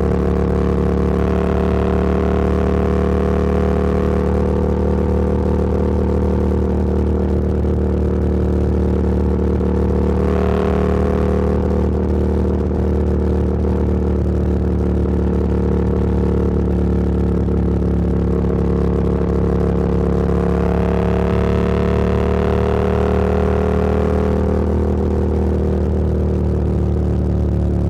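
Motorcycle engine running steadily at cruising speed, with wind and road noise. A brief surge of rushing noise comes about ten seconds in, and the engine note rises and then falls again a little after twenty seconds.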